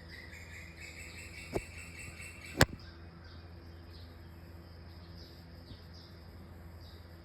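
Faint chirping, like birds, over a steady low hum. There are two sharp clicks, about one and a half and two and a half seconds in, and the second is the louder.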